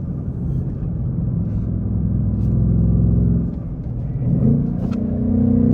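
2024 Ford Mustang GT's 5.0-litre Coyote V8 and active exhaust pulling under acceleration. The note builds, dips a little past halfway as the throttle comes off, then rises in pitch and pulls harder again near the end.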